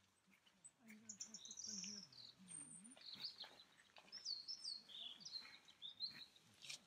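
Faint woodland birdsong: several birds chirping and trilling in short high phrases, some notes falling in pitch.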